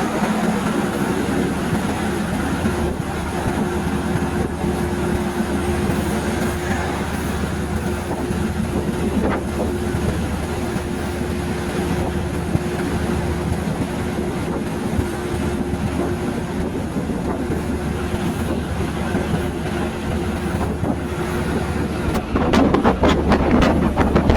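Passenger train running along the track: a steady rumble of wheels on rail with a continuous low hum, growing louder and rougher near the end.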